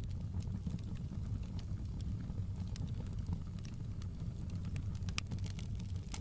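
Wood fire burning in a fireplace: a steady low rumble of flames with scattered sharp crackles and pops, a louder pop about five seconds in.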